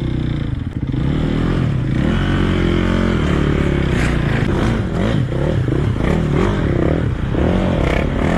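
Enduro motorcycle engine running, then revved up and down over and over from about two seconds in, with several clattering knocks.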